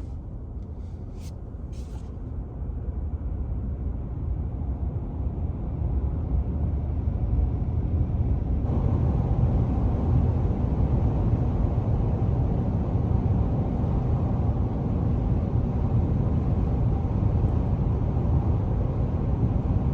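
Steady road and wind noise of a Ford F-150 Lightning electric pickup driving, with no engine note. It grows louder over the first several seconds and a brighter hiss joins about nine seconds in. A couple of light clicks sound in the first two seconds.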